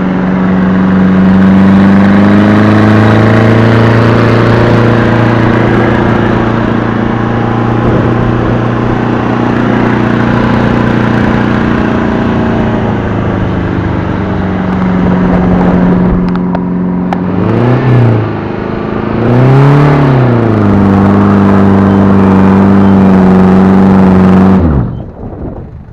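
Mercedes-Benz 240D's OM616 four-cylinder diesel engine running at steady revs, with two quick rises and falls in revs about two-thirds of the way through. Near the end the engine sound drops away abruptly.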